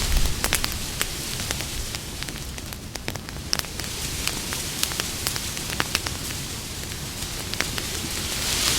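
Wood campfire crackling, with many scattered sharp pops over a steady hiss and low rumble of burning. The hiss swells briefly near the start and again near the end.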